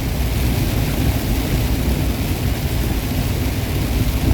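Steady drone of a semi truck driving at highway speed, heard from inside the cab: engine rumble with road and tyre hiss. A single short knock comes near the end.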